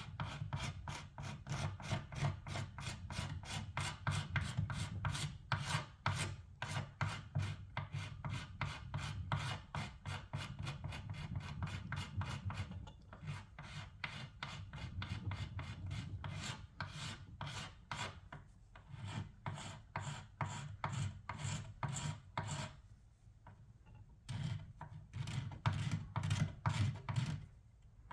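Old paint and finish being worked off by hand with an abrasive tool, in quick back-and-forth rubbing strokes at about three a second, with a short break late on.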